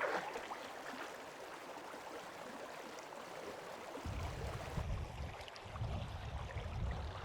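River water flowing, a steady rushing. About four seconds in, a low rumble joins it.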